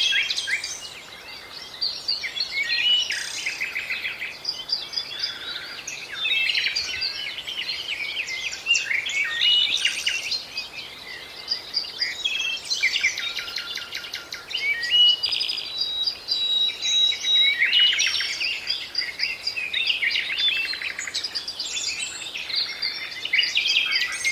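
Several songbirds singing and calling at once, a dense, continuous mix of chirps, rapid trills and short whistles.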